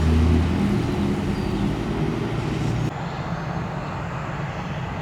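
Steady low engine rumble with a humming drone, which changes abruptly about three seconds in to a duller, quieter rumble.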